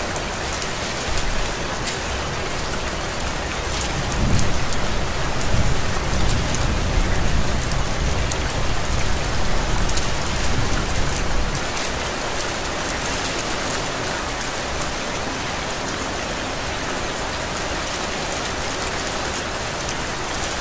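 Steady rain falling, an even hiss with scattered drop ticks. From about four seconds in a low rumble swells beneath it and fades out by about eleven seconds.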